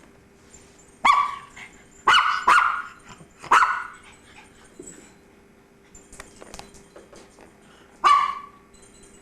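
A pet dog barking: five sharp single barks, four in the first few seconds and one more near the end.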